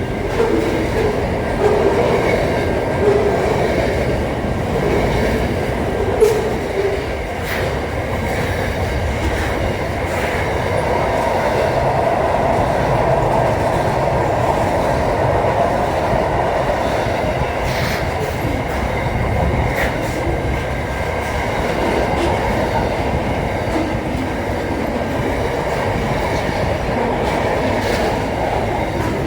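A train running on the rails: a steady rumble with a few sharp clicks scattered through it.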